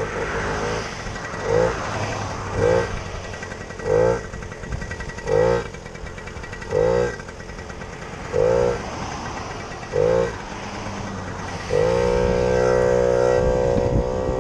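Small pit bike engine revving in short throttle blips, each rising and falling, about one every second and a half, then held at a steady higher rev for the last couple of seconds.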